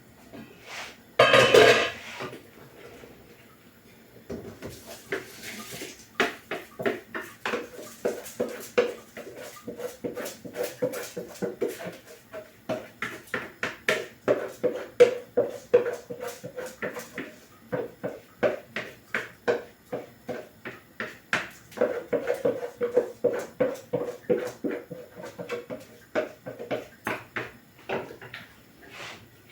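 Washed rice tipped into a pot of coconut rice and peas with a short loud rush about a second and a half in, then a spoon stirring it, knocking and scraping against the pot about two to three times a second.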